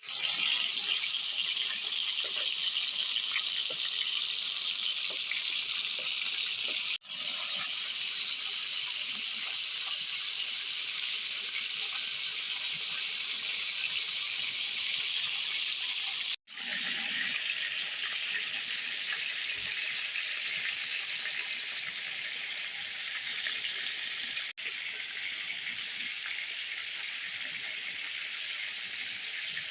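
Shashlik sizzling over a grill: a steady hiss that breaks off abruptly three times.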